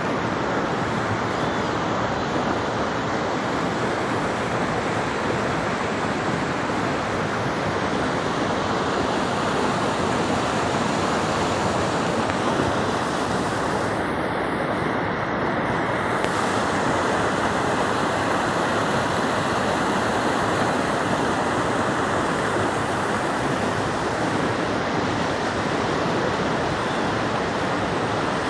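Water pouring over a reservoir's spillway as the dam overflows: a loud, steady rush with no breaks.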